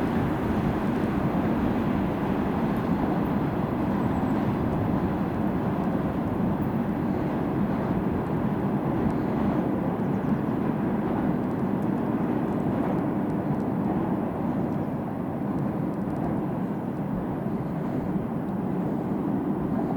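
Freight train rolling past: a steady rumble of wheels on the rails.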